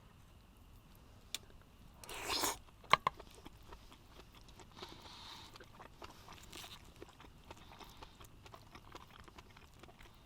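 A person eating: a short crunchy bite about two seconds in, a sharp click just after, then faint chewing and small handling noises.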